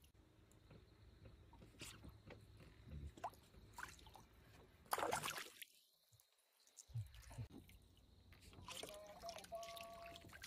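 Faint dripping and trickling water with scattered small splashes, and one louder splash-like burst about five seconds in.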